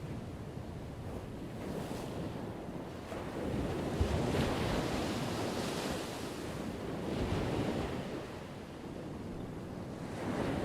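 Ocean waves breaking and washing on a shore: one wave builds and crashes about four seconds in, the surf eases off, and another swell starts building near the end.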